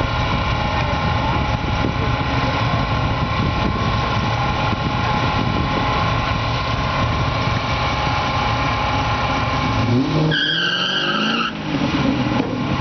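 Engines idling at the start line, the supercharged van nearest, a steady low rumble. About ten seconds in there is a brief rev, rising in pitch with a higher whine, lasting about a second and a half, before the idle resumes.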